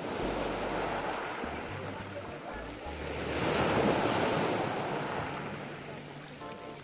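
Sea surf washing onto the shore, one wave swelling to a peak about halfway through and then receding, with wind rumbling on the microphone.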